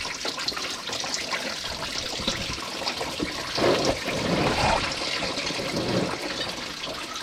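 Engine coolant pouring out of the loosened water pump into a drain bucket, a steady stream of liquid that swells for a couple of seconds in the middle.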